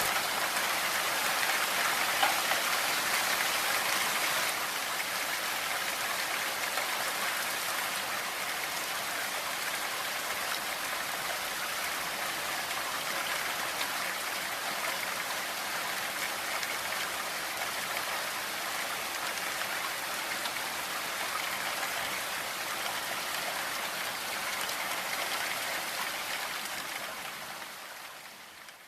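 Steady rain falling, an even hiss of drops with no single strokes standing out. It cuts in suddenly at the start and fades out over the last two seconds or so.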